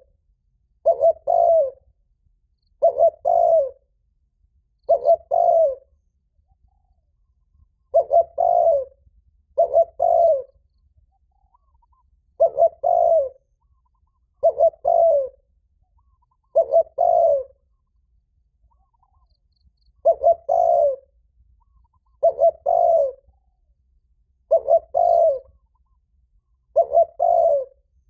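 Spotted dove cooing loudly: a short note and a longer, slightly falling coo, repeated about every two seconds with a couple of longer pauses. This is the insistent challenge call, called 'thúc' in Vietnamese, that provokes rival males to fight.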